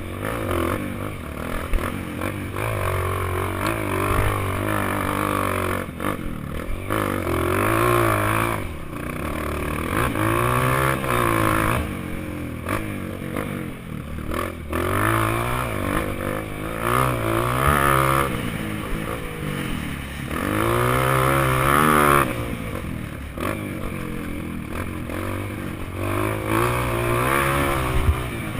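Honda CRF230 dirt bike's four-stroke single-cylinder engine riding hard, its revs climbing and dropping over and over as the throttle opens and closes every few seconds, with rattling from the bike.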